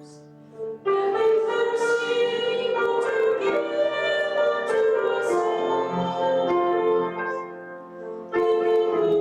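Congregation singing a hymn with instrumental accompaniment, in held, sustained notes. There is a short break between lines near the start and another just before the end.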